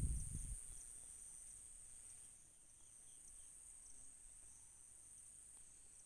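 Insects, crickets, chirping in a steady high-pitched drone, with a low rumble at the very start that dies away within half a second.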